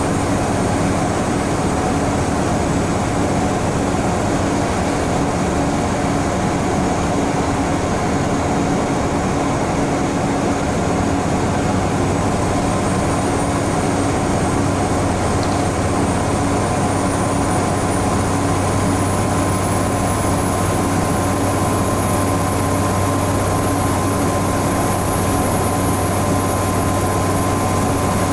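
Scania N94UB Omnicity single-decker bus heard from inside the passenger cabin, cruising steadily with its engine and ZF Ecomat automatic gearbox drone and road noise. A faint high whine rises a little about halfway through and then holds level.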